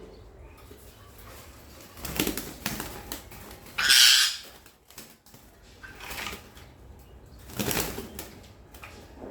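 Birds flapping their wings in several short bursts, likely a pet parrot and a myna scuffling. About four seconds in there is a loud, brief, high-pitched burst, the loudest sound here.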